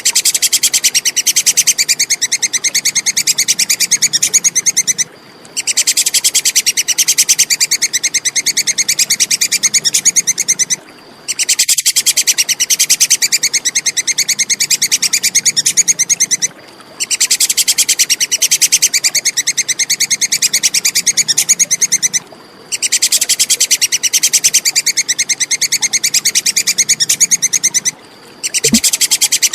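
Squirrel's chattering 'kekes' call: a rapid string of sharp, high notes in bouts of about five seconds, each followed by a short pause.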